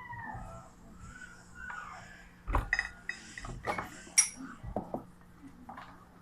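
Spoon and fork clinking against a plate during a meal: a handful of sharp clinks from a little before halfway, the loudest about four seconds in.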